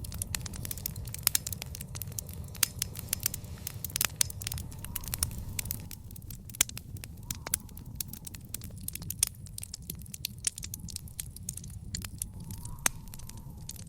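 Fire in a backyard fire pit crackling, with frequent sharp, irregular pops over a steady low rumble.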